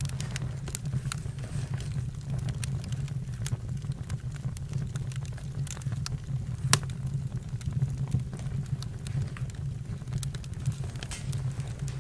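Campfire burning: a steady low rumble with frequent sharp crackles and pops from the burning wood, one pop louder than the rest a little past halfway.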